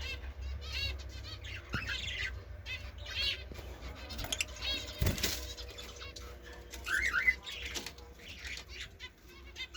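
Pet lovebird chirping in rapid, repeated high squeaky notes, with a brief rustling burst about halfway through.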